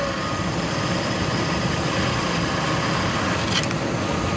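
Ford 5.4 Triton V8 idling with a faint, steady high whistle over the engine noise. The owner traces the whistle to a failing driver's side idler pulley, not the alternator or the plastic intake manifold. There is one brief click about three and a half seconds in.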